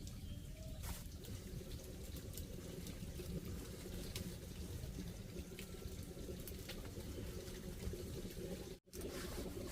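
Steady running water with scattered light clicks. It breaks off for an instant near the end.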